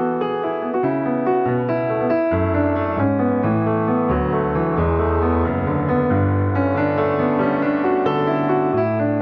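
Piano music: a slow, sustained passage of chords and melody notes.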